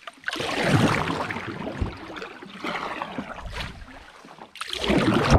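Canoe paddle strokes through the water: three swishing washes about two seconds apart.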